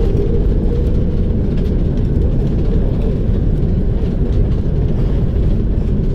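Steady, loud low rumble inside the economy cabin of an Airbus A330-300, the airliner rolling on the ground after landing.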